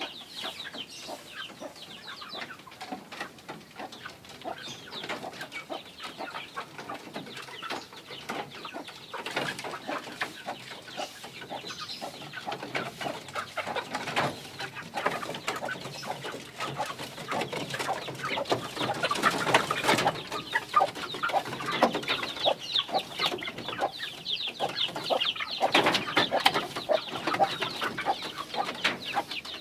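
A flock of Indonesian village chickens (ayam kampung) clucking, many birds calling over one another. The clucking grows louder past the middle and again near the end.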